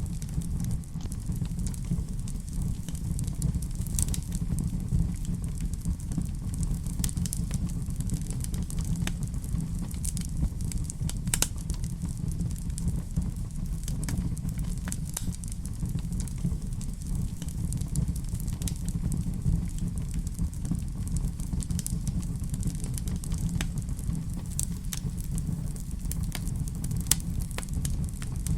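Fireplace fire burning steadily: a continuous low rumble of the flames with frequent irregular crackles and pops.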